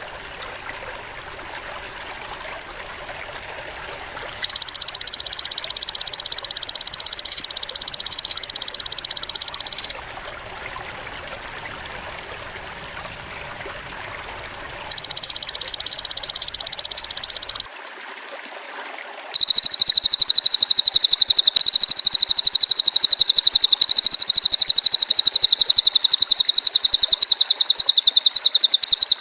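Bird-training recording of a cililin bird and a belalang emas (golden grasshopper): loud, very rapid high-pitched trills, two separate bursts of about five and three seconds, then a longer unbroken trill from about two-thirds of the way through.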